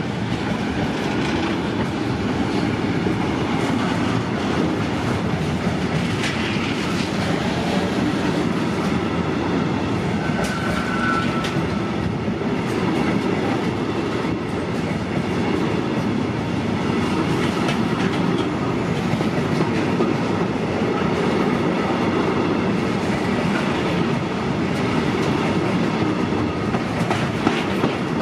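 A train passing through a station: a steady, loud rumble of wheels on track that holds for the whole stretch, with scattered clicks and a brief high squeal about ten seconds in.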